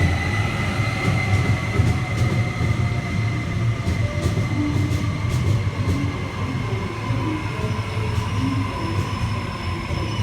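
Electric suburban train running through an underground station: a steady low rumble with a whine that slowly falls in pitch as the train slows.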